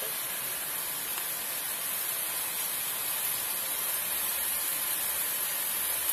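Vegetables, mushrooms and bean curd sizzling in a hot oiled wok: a steady hiss.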